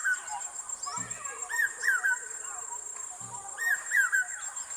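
Bird song: a short phrase of quick, arched whistled notes repeated about every two seconds, over a steady high-pitched hiss.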